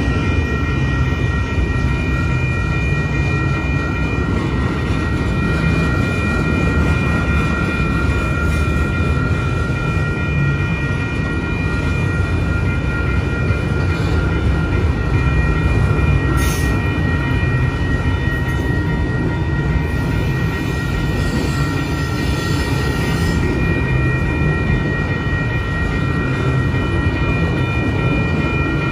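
Freight train's autorack cars rolling past at a grade crossing: a steady low rumble of steel wheels on the rails, with a few steady high-pitched ringing tones over it and a single sharp click about halfway through.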